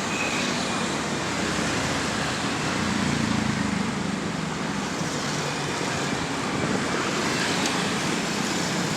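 Excavator's diesel engine running with a steady, noisy drone that swells slightly midway.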